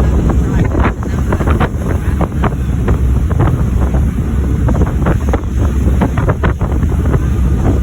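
Wind buffeting the microphone in irregular gusts over the steady low rumble of a moving boat.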